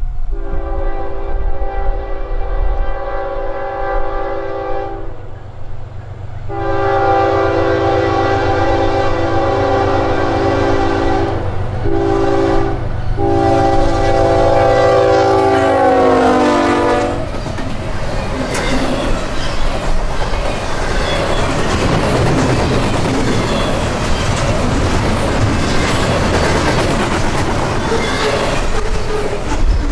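A CSX freight locomotive's multi-note air horn sounds the grade-crossing signal, long, long, short, long, with the pitch dropping at the end of the last blast as the locomotive passes. Then the locomotive's engine and the double-stack container cars roll by with a steady rumble and clatter of wheels over the rail joints.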